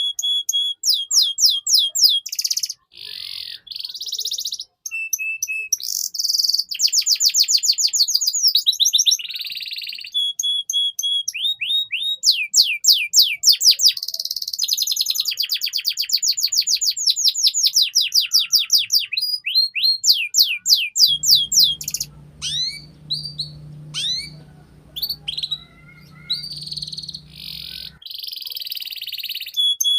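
Domestic canary singing a long, fast song of rapid trills and runs of repeated sweeping notes, switching to a new phrase every second or two. A low hum sits under the song for several seconds past the middle.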